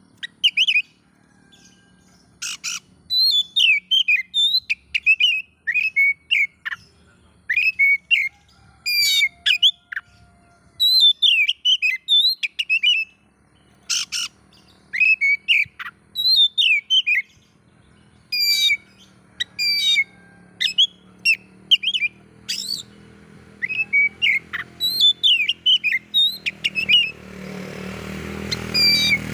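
Oriental magpie-robin (kacer) singing in short bursts of sharp whistles and chirps separated by brief pauses. Near the end a low background noise swells up under the song.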